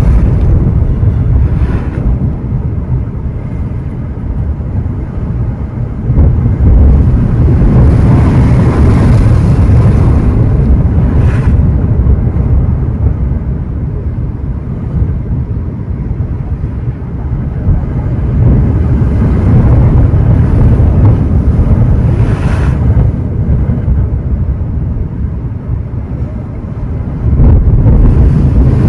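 Ocean surf: waves breaking and washing in, with three swells of rushing noise roughly ten seconds apart, and wind buffeting the microphone with a heavy low rumble.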